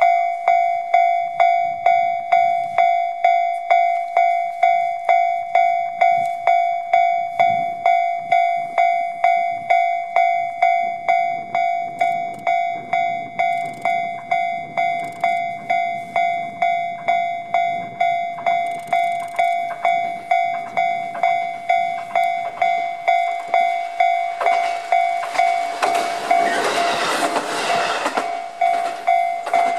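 Level-crossing warning bell ringing steadily at about two strikes a second. Under it, a single-car KiHa 220 diesel railcar approaches with a rumble that grows from about halfway, then passes close by near the end with a loud rush of engine and wheels lasting a few seconds.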